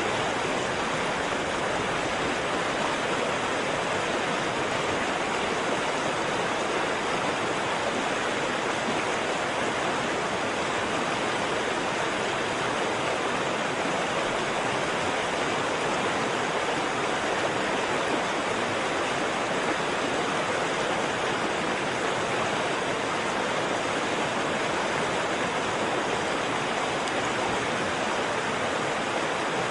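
Waterfall: water falling and rushing in a steady, unbroken roar with no changes.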